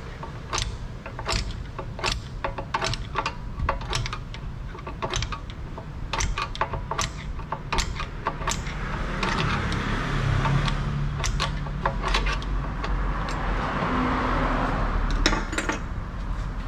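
Irregular sharp metallic clicks and clinks, about two or three a second, of tools and metal parts being handled, over a low steady hum. A hissing noise swells in the second half.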